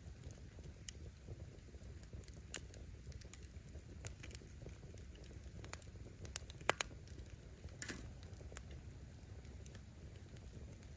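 Wood bonfire burning: firewood crackling and snapping in scattered clicks over a low steady rumble, with two sharper pops a little past the middle.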